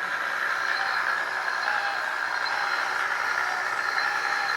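1/12 scale RC hydraulic steel road roller running steadily. Its onboard speakers play a simulated truck-type engine sound over its electric drive motor and hydraulic pump.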